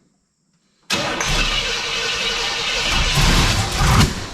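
Freshly built big-block Oldsmobile V8 catching suddenly about a second in and running loud, getting louder, then dropping back near the end.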